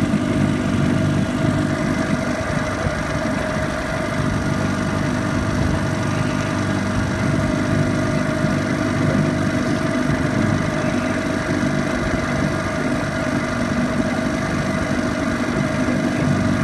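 Sea King 12 hp two-stroke outboard motor running steadily, pushing the boat along at a constant speed.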